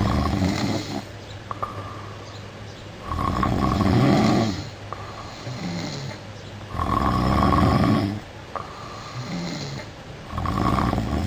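A sleeping person snoring loudly: four heavy snores about three and a half seconds apart, each lasting a second or so, with quieter breathing between them.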